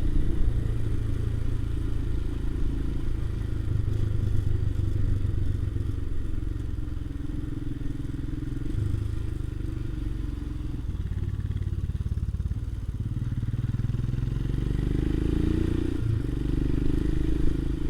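Motorcycle engine running steadily as the bike is ridden, a low drone whose note rises briefly about fifteen seconds in.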